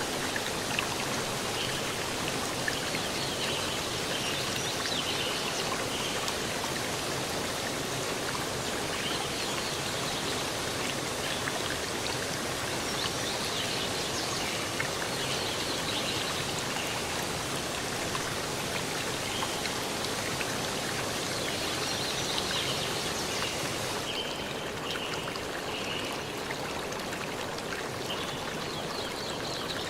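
A stream of running water rushes steadily, with faint high chirps coming and going over it. About three-quarters of the way through, the sound changes abruptly and loses some of its highest hiss.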